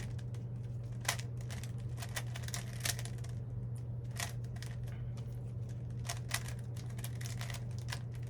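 A plastic Rubik's cube clicking and clacking as its layers are twisted in quick, irregular turns, over a steady low hum.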